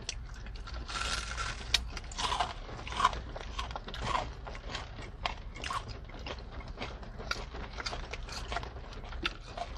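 Close-miked mukbang eating: chewing and crunching of fried food and a burger, with irregular crisp crunches and mouth smacks. Onion rings, fries and a turkey burger are being eaten.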